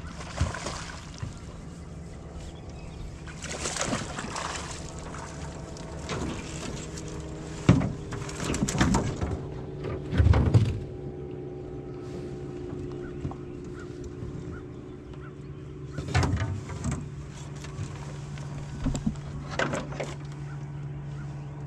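A steady low motor hum aboard an aluminum fishing boat, broken by several sharp knocks and thumps, the loudest about ten seconds in.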